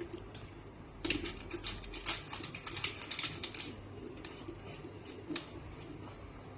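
Light clicking and rattling of small hard parts being handled, a dense run of clicks in the first half and scattered clicks after.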